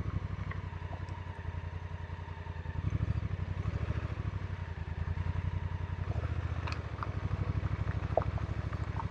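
A 2019 Honda Africa Twin's parallel-twin engine running under way, its pulsing exhaust note swelling a little about three seconds in and again past the middle. A few faint clicks near the end.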